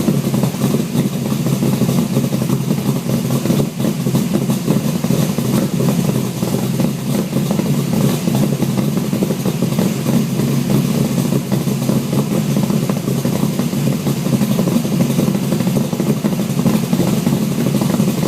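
414 cubic inch Mopar stroker V8 running steadily at idle through a dual 3-inch exhaust with an H-pipe and straight-through Edelbrock mufflers, a loud, raspy note from a still-cold engine.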